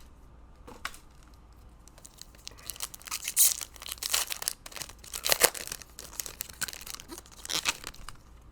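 Plastic foil trading-card pack wrapper being torn open and crinkled by hand: a short rip under a second in, then a run of crackling tears and crinkles from about two and a half seconds in to near the end.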